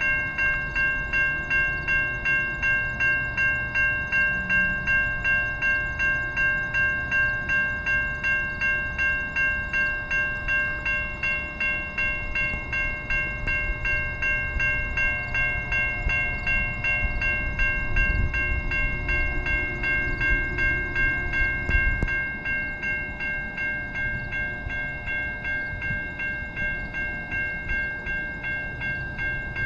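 Railway level-crossing warning bell ringing steadily at about one and a half strokes a second, over the low rumble of a passing train that swells for a few seconds past the middle.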